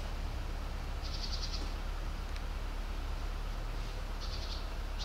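Short, high, rapidly pulsed trills from a small bird, twice, over a steady low outdoor rumble.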